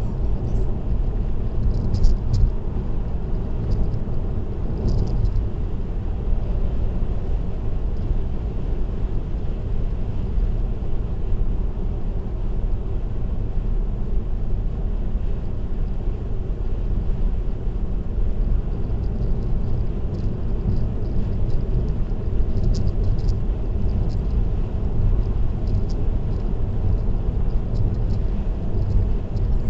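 Car driving at expressway speed, heard from the dashcam inside: a steady low rumble of tyre and road noise with the engine, with faint high clicks here and there.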